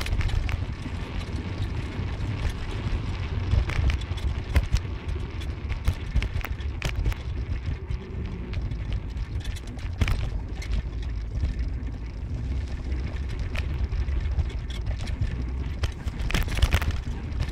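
Car driving: a steady low rumble of engine and road noise, with frequent short knocks and rattles.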